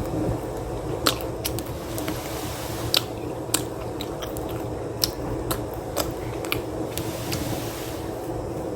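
Close-up eating sounds: a mouthful of mushroom and cheese pizza being chewed, with sharp wet mouth clicks about every half second over a steady low hum.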